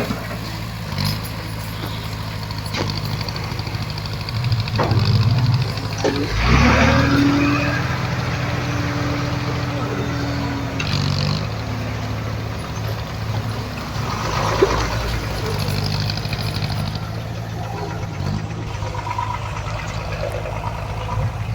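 Heavy earthmoving machine's diesel engine running steadily. About six seconds in it rises in pitch under load, then eases back down over the next few seconds.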